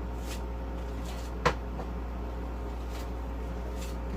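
A single sharp clack about one and a half seconds in, with a few faint ticks, over a steady low kitchen hum.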